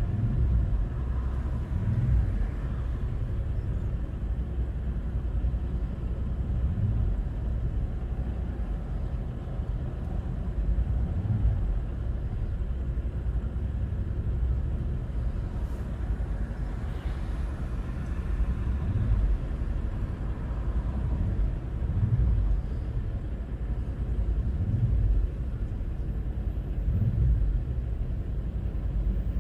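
Steady low rumble of a vehicle on the move, road and wind noise swelling gently every few seconds.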